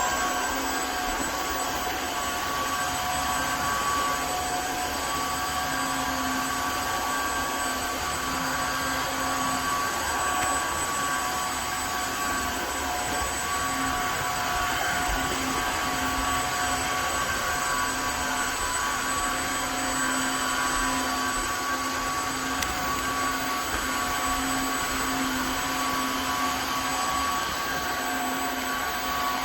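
Tineco Floor ONE S5 cordless wet-dry floor cleaner running steadily: a continuous motor whine with several constant tones, unbroken throughout.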